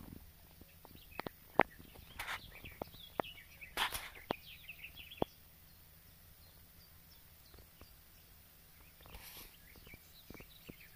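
Small birds chirping and twittering in the background. In the first half there is a scatter of sharp clicks, the loudest about a second and a half in, along with a few brief rustles and one more rustle near the end.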